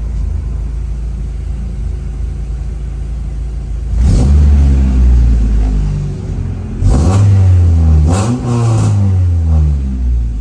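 Honda Integra's B-series four-cylinder engine with an aftermarket header and 2.5-inch exhaust, idling steadily and then revved sharply several times from about four seconds in, the pitch climbing and dropping back between blips.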